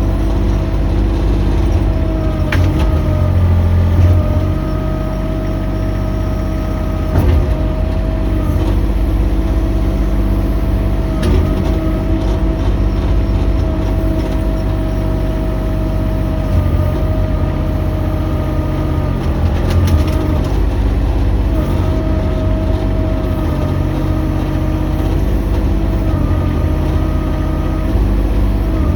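Mini excavator's engine running steadily under load, with a high hydraulic whine that comes and goes as the controls are worked and a few sharp knocks.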